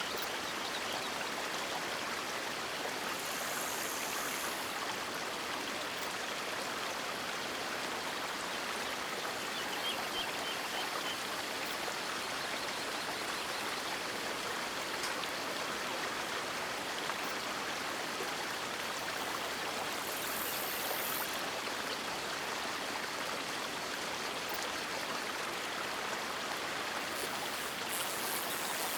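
River water flowing and splashing steadily, an even rushing with no letup, with a brief higher hiss about three seconds in and again about twenty seconds in.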